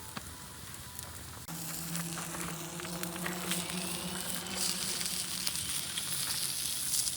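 Food sizzling in a pan over a fire, with scattered crackles. About a second and a half in, the sound changes abruptly to louder, steady sizzling with a low steady hum underneath.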